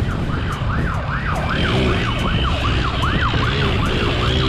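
Police siren in fast yelp mode, its pitch sweeping up and down a few times a second, over a steady low rumble.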